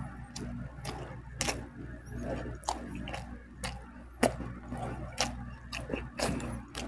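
Close-up mouth sounds of a person chewing milkfish: wet smacks and clicks at irregular intervals, the loudest about four seconds in.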